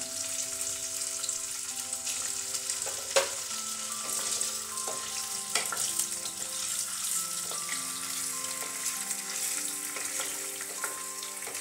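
Paneer cubes shallow-frying in hot refined oil in a kadai, a steady sizzle, being lightly fried rather than browned. A wooden spatula stirs and knocks against the pan now and then, loudest about three and six seconds in.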